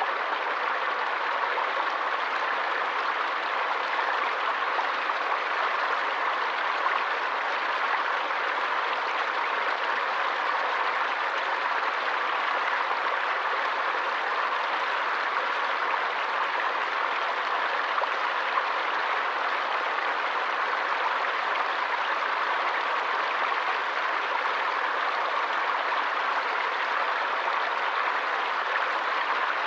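Forest stream or small waterfall flowing and splashing in a steady, even rush of water.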